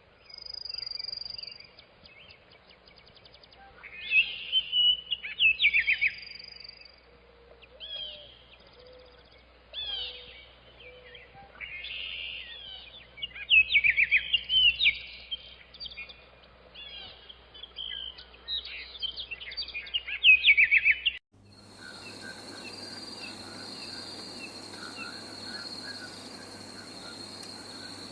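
Birds chirping and calling in repeated quick bursts of rapid notes. About 21 seconds in the sound cuts to a steady high-pitched insect-like shrill over a noisy hiss with faint chirps.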